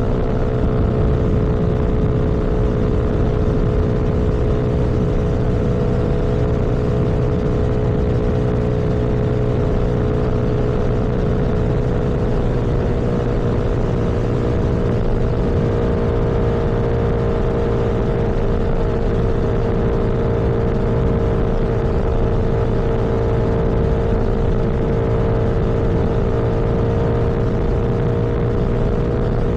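Vehicle engine running steadily at cruising speed, with heavy wind and road rumble.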